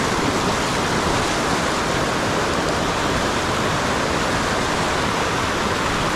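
Steady rush of river water tumbling over falls and rapids.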